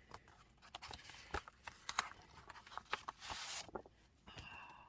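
Paper and plastic packaging being handled: scattered rustles and small clicks, with a longer crinkling rustle about three seconds in.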